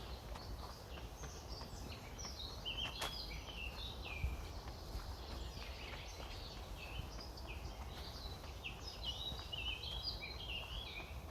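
Several songbirds chirping and singing in quick, high, overlapping phrases, over a low steady rumble of wind on the microphone.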